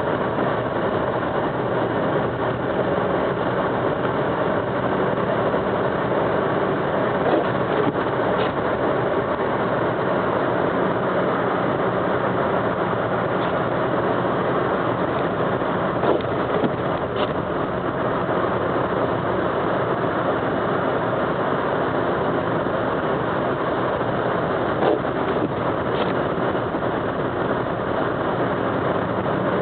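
Steady driving noise of a car, engine and tyres on a snow-covered road, heard from inside the cabin, with a few faint clicks.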